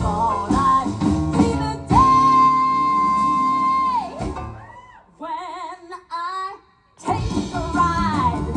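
Live stage-show band music with singing. About two seconds in, one high note is held steady for about two seconds. A short quieter break with a few wavering phrases follows, and the full band comes back in near the end.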